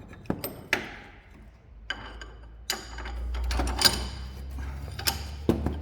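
Metal tools and suspension parts clinking and knocking during hand work, some strikes ringing. A low steady hum sets in about two seconds in.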